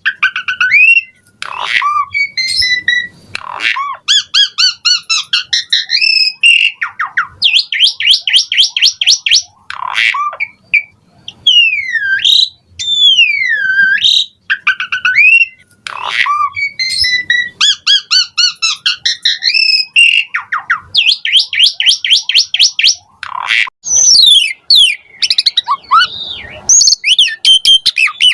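Asian pied starling (jalak suren) singing continuously: loud whistled notes that glide down and back up, alternating with fast rattling trills of short sharp notes, in phrases that repeat every few seconds.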